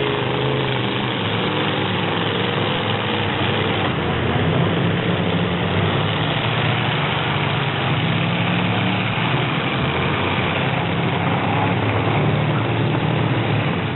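Full-size truck engines running steadily, a loud low engine drone under a constant wash of noise, with no sharp impacts.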